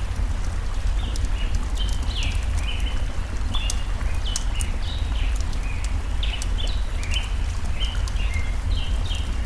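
Campfire crackling with scattered sharp pops, while birds sing many short, quick chirps, some dipping in pitch. A steady low rumble runs underneath.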